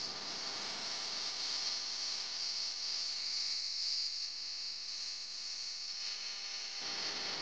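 A steady high-pitched hiss that holds evenly throughout, with faint low background noise coming back near the end.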